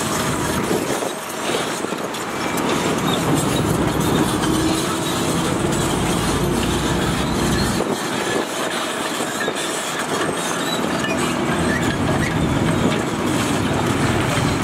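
Heavy diesel construction machinery running and working steadily, with the deep engine sound dropping away briefly about a second in and again about eight seconds in.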